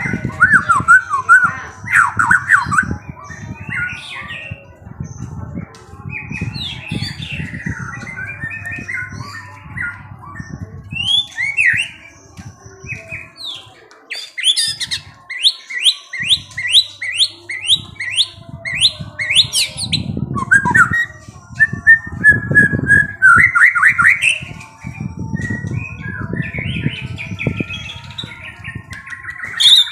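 Songbirds chirping and singing in quick, varied phrases, with a fast run of about a dozen rising notes a little past the middle. An uneven low rumbling noise runs underneath.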